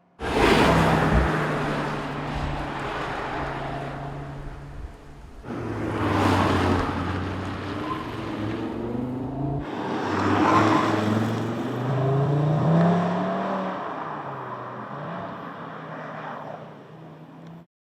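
Audi RS 3's turbocharged five-cylinder engine and sport exhaust accelerating and driving past in several cut-together takes. The engine pitch rises and falls, and the sound stops abruptly near the end.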